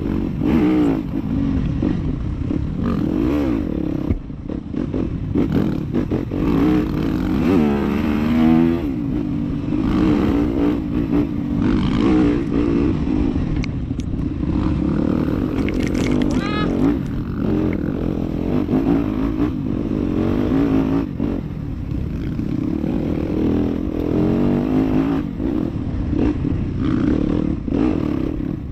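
Dirt bike engine revving up and down with the throttle as it is ridden off-road.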